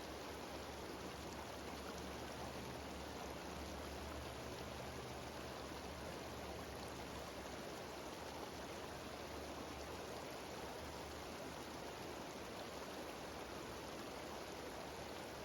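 Mountain stream and small waterfall rushing steadily, an even wash of water noise with no change.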